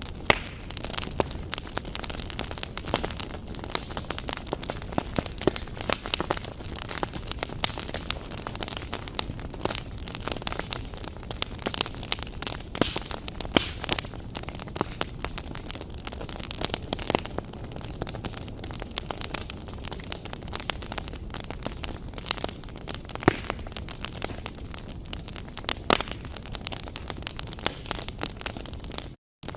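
Wood fire crackling in a fireplace: a steady stream of irregular sharp pops and snaps over a low hiss. The sound cuts out for a moment near the end.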